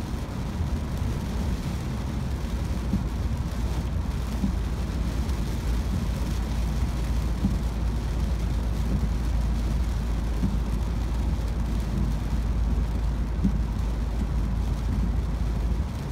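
Steady in-cabin noise of a car driving on a wet road: a low road rumble with the hiss of tyres on wet pavement.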